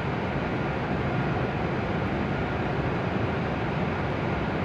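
Steady, even hum and hiss of a stationary W7 series shinkansen standing at the platform with its onboard equipment running, with no movement or braking sounds.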